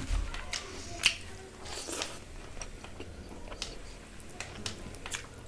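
Close-miked chewing of a mouthful of rice and fish, with wet mouth smacks and a run of sharp clicks. The loudest click is a single crisp snap about a second in.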